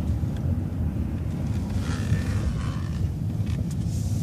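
City transit bus driving, a steady low engine and road rumble, with a brief faint hiss near the middle.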